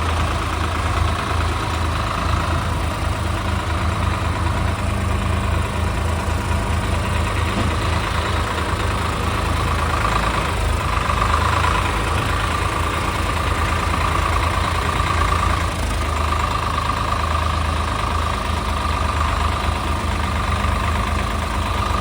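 Tractor diesel engine running steadily, with a low pulsing beat; its higher note grows a little stronger about halfway through for several seconds.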